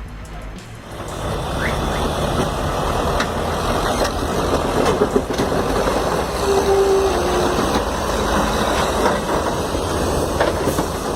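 Heavy machinery running with a steady rumble, scattered clanks and rattles, and a brief tone near the middle.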